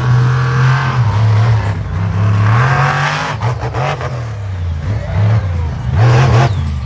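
Monster truck engine revving up and down over and over, with a few sharp clacks about halfway through.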